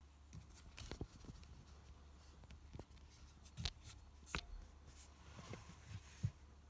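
Light clicks and knocks of things being handled inside a car cabin, over a faint steady low hum, with the sharpest knock a little before the end.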